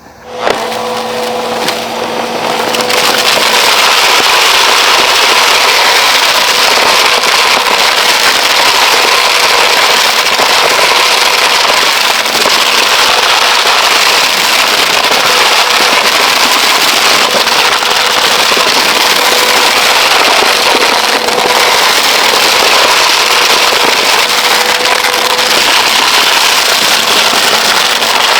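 Bissell PowerForce Helix 3313R vacuum cleaner running with a steady motor hum, loud crackling and rattling as it sucks up grit and small rocks. The crackling grows louder about three seconds in.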